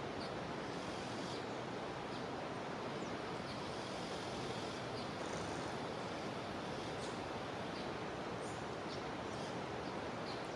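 Steady rush of a jungle river's flowing water, with faint short high chirps of insects or birds scattered over it.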